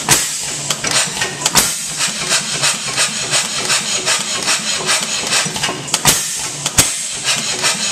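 H.M. Spence hit-and-miss gas engine running, a rapid, even mechanical clatter, with a few louder bangs about a second and a half in and again near the six- and seven-second marks.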